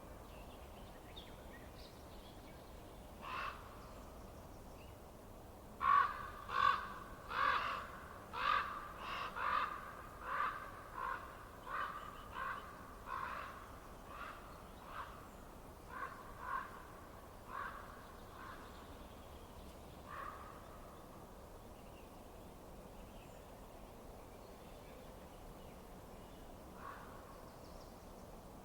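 A bird calling: one call a few seconds in, then a fast run of about fifteen calls that slow and fade, and two more single calls later, over a faint steady background noise.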